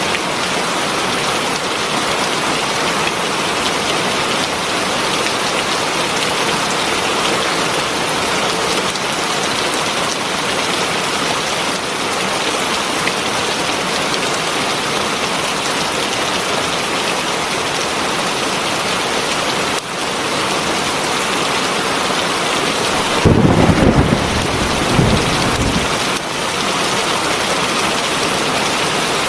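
Heavy rain falling steadily, a dense even hiss. About three-quarters of the way through, a low rumble of thunder swells up for about three seconds and is the loudest sound.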